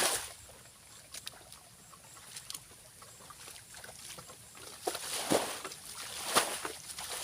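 Shallow water in a paddy field being splashed and sloshed in short, scattered bursts, louder and closer together near the end.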